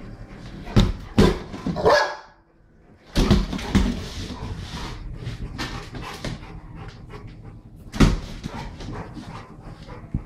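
A dog barking during rough play, with several sharp knocks on a hardwood floor, the loudest about a second in, three seconds in and eight seconds in.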